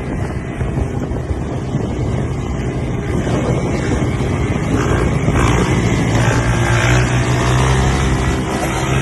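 Motorcycle engine running while riding, with wind buffeting the microphone; the engine grows louder about halfway through.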